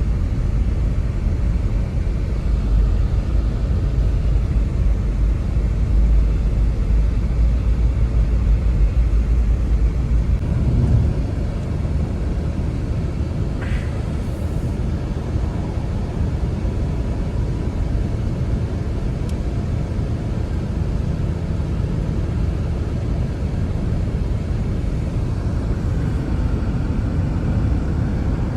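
Blizzard wind, a steady rush with a deep rumble that is heaviest for the first ten seconds or so and then eases slightly.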